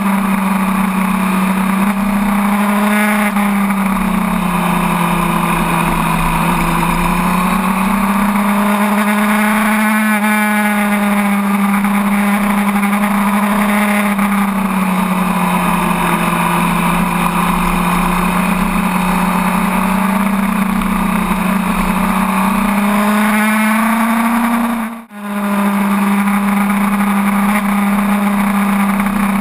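Sport bike engine running under way along winding road, its note rising and falling gently with throttle through the bends, over steady wind rush. The sound drops out briefly about 25 seconds in.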